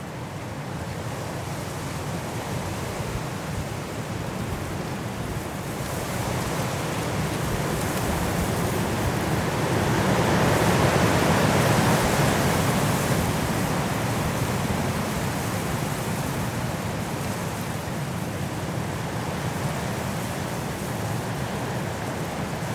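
Strong wind blowing through trees in a snowstorm, a steady rush that builds to a gust about halfway through and eases off again.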